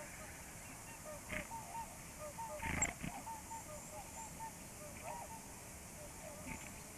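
A flock of swans calling, many short honking notes overlapping one another, with a louder harsh call or burst a little under three seconds in.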